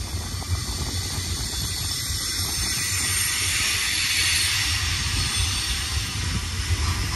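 Intermodal stack train rolling past: a steady low rumble of wheels on rail with a broad hiss over it that swells about halfway through.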